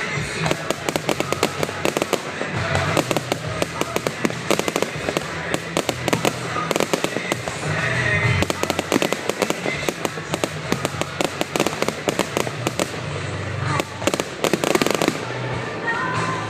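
Fireworks display: a dense, continuous barrage of bangs and crackling reports, with music playing underneath.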